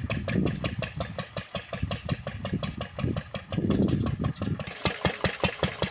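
Lister D single-cylinder engine of a homemade locomotive running with a steady, even beat of firing knocks.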